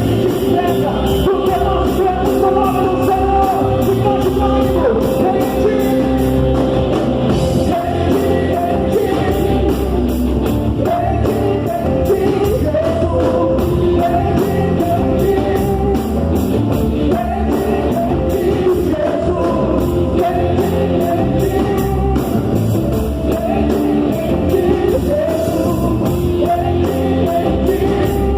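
Live gospel praise band playing a rock-style worship song with singing over a steady drum beat.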